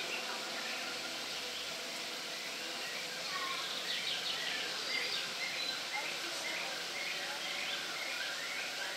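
Steady outdoor background hiss. From about three and a half seconds in, a small bird chirps in a quick, repeated series of short high notes.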